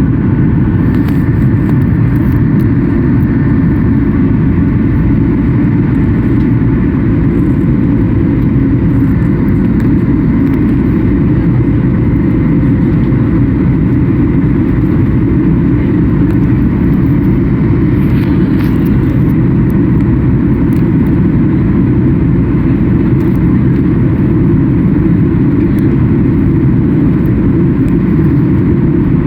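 Steady, loud rumble of a Boeing 737 MAX 8's CFM LEAP-1B engines and airflow heard inside the passenger cabin.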